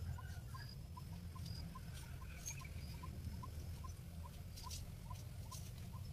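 A bird repeating a single short, even note about two and a half times a second, over a low rumble of wind on the microphone.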